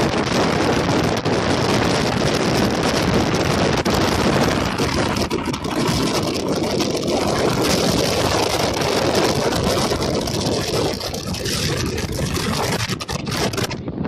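Strong wind buffeting the microphone: a loud, steady rush of noise with no distinct tones.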